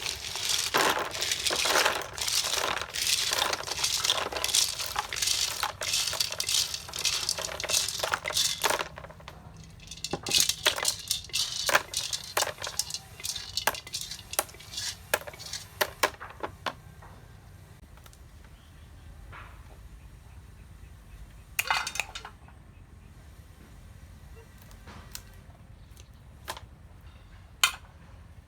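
Small hard objects clinking and rattling against each other in a dense run of sharp clicks, thinning out after about sixteen seconds to a few scattered clicks.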